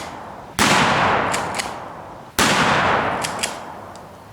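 Two single rifle shots from an M4 carbine firing .223 rounds, about two seconds apart, each ringing away in a long echo, with a couple of faint high clicks shortly after each shot.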